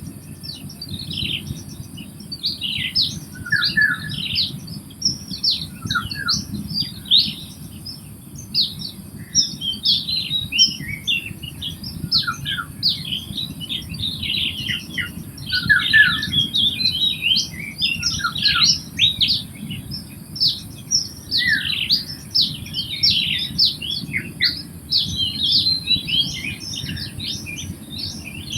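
Many birds chirping and calling at once, a dense, continuous chorus of short, quick high chirps and squawks in a wetland. Under it run a faint steady high hiss and a low rumble.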